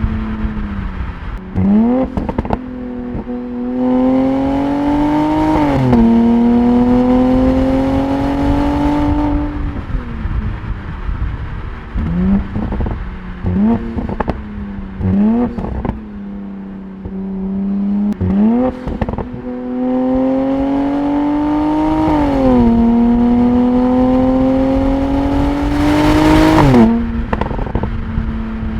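Mercedes-AMG SLC 43's twin-turbo V6 exhaust idling and blipped several times. It pulls up through the revs twice, the pitch climbing and then dropping sharply at each gear change, with a few sharp cracks from the exhaust.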